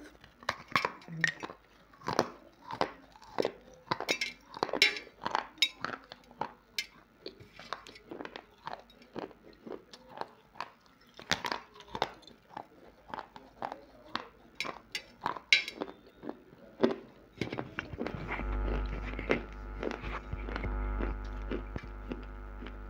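Close-miked biting and crunching of hard, dry clay pieces: sharp, brittle crunches about one or two a second, with chewing between them. A steady hum comes in near the end.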